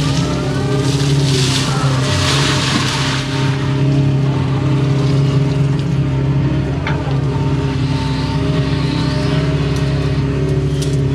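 Excavator's diesel engine running steadily at working speed while it digs, with one sharp click about seven seconds in.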